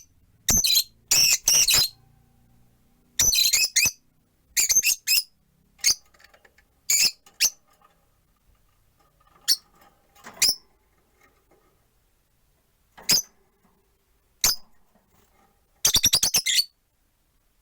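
Rosy-faced lovebirds chirping: short, shrill calls in quick clusters with pauses between, several birds calling.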